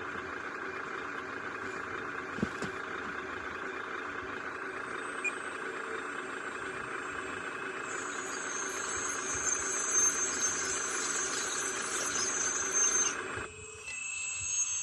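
Heavy diesel earthmoving machine running steadily, a droning engine note with a few held tones. A high whine joins about halfway through, and the sound changes abruptly near the end.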